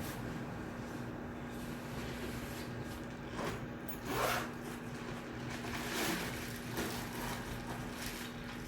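Shared study room ambience: a steady low hum with a faint fixed tone, and several brief, soft rustles and scrapes from people at their desks, the loudest about four seconds in.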